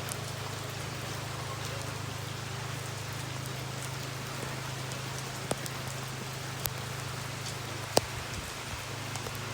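Rain falling steadily, with a few louder single drops striking a surface now and then, the loudest about eight seconds in.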